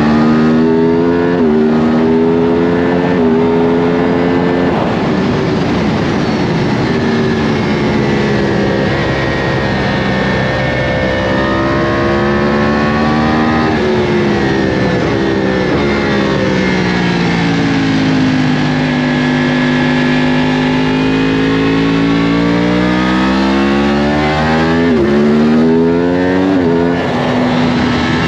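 Yamaha R1 inline-four sportbike engine under hard acceleration on track, heard onboard with wind rush: it revs up through the gears with three quick upshifts in the first few seconds. About halfway through the note jumps with a downshift and falls away under braking, runs low through a corner, then climbs again with three rapid upshifts near the end.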